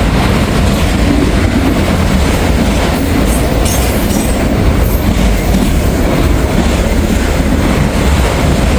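Freight train of auto rack cars rolling past close by, a loud steady noise of steel wheels on the rails.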